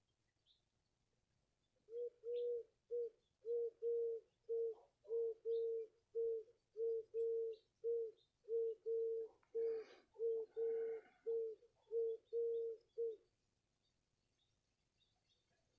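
A bird calling: a long run of short, low hoots on one steady pitch, about two a second, starting about two seconds in and stopping a couple of seconds before the end.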